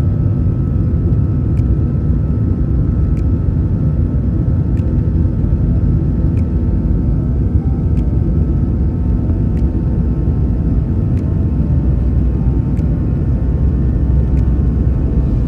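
Steady low rumble of a vehicle in motion, heard from inside the cabin, with faint ticks about every one and a half seconds.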